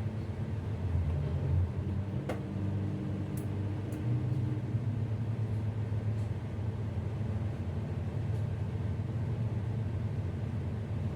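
Tugboat's diesel engines running with a steady low rumble, with a light click about two seconds in.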